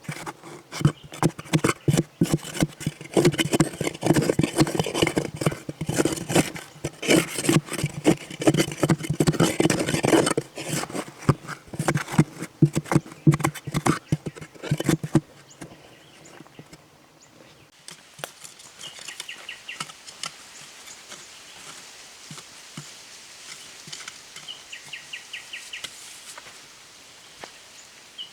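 Dense, irregular knocking and scraping for about fifteen seconds, then a quieter stretch in which an insect trills in short pulsed bursts three times.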